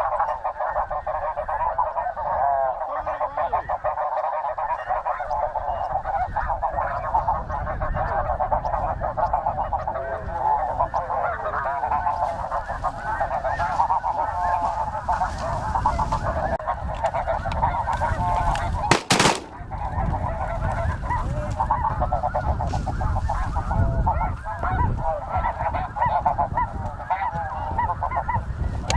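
A huge flock of snow geese calling, a dense, continuous din of countless overlapping high honks and yelps, over a low rumble. A single sharp crack cuts through about nineteen seconds in.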